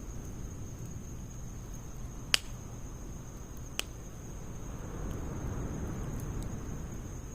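Wood fire burning in a Snow Peak fire stand: a steady low rush of flame with two sharp crackles, and the flame noise swelling for a couple of seconds about five seconds in.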